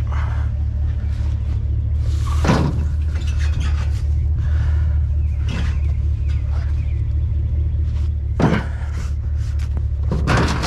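Steady low rumble of an idling vehicle engine, with four sharp clunks and knocks spaced about three seconds apart.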